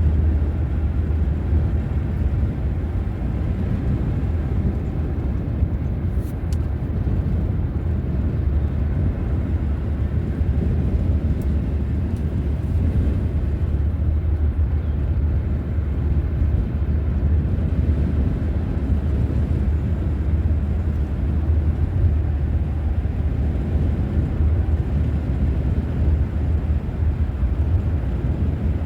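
Steady low rumble of a car driving: engine and tyre noise, even throughout with no change in speed.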